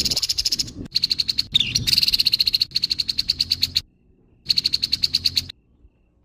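Grey-headed babbler giving its harsh call: a rapid rasping chatter of fast repeated notes, about a dozen a second, in three bouts. It stops a little before the end.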